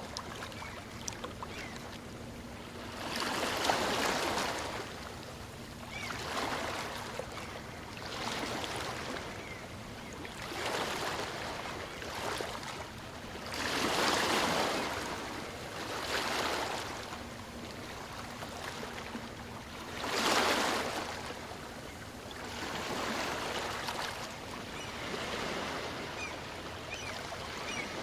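Small waves of a calm sea washing in on the shore: a surge of surf every two to three seconds over a steady background wash. The biggest surges come near the start and about twenty seconds in.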